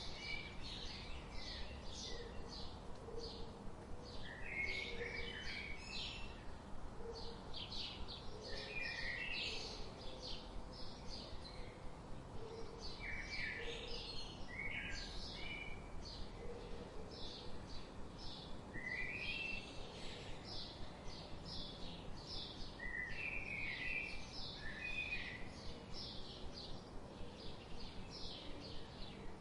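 A chorus of songbirds chirping: many short, quick chirps overlapping without pause, with faint lower notes now and then beneath them.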